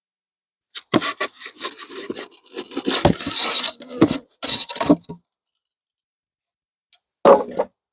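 Rubbing and scraping as things are handled, for about four seconds, then one short scrape near the end.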